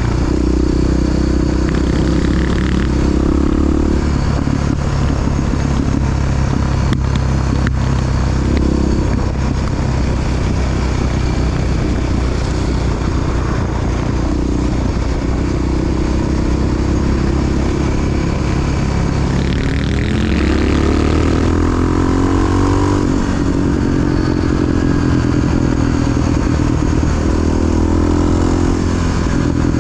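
Big single-cylinder four-stroke Honda XR dual-sport motorcycle engine running steadily under way, with the engine speed rising and falling about two-thirds of the way through.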